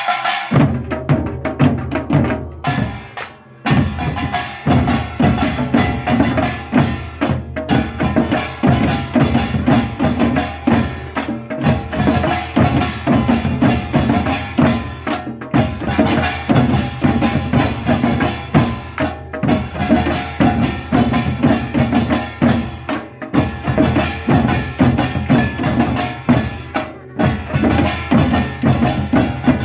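Korean folk percussion band (pungmul) playing a dense, continuous rhythm on drums and small gongs, with a brief break about three seconds in.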